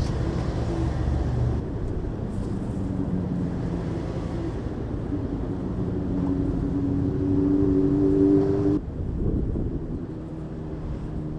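Mazda MX-5's 1.5-litre four-cylinder engine pulling under acceleration, its note rising steadily. About nine seconds in the sound drops off suddenly and runs on lower and quieter.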